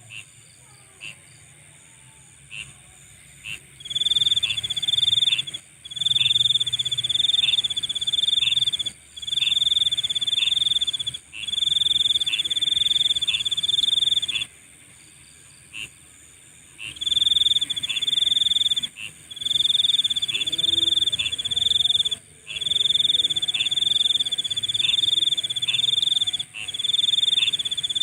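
Night-time chorus of calling insects. A loud, high trill comes in bouts of about one to two seconds with short breaks, starting about four seconds in, over a steady high-pitched drone. Single sharp chirps sound in the quieter stretches.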